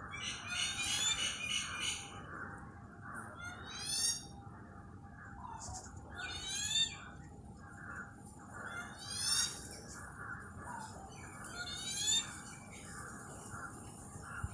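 Wild birds calling. A rapid chatter comes in the first two seconds, then one bird repeats a short, sweeping high-pitched phrase four times, about every two and a half to three seconds, over a steady background of many faint calls.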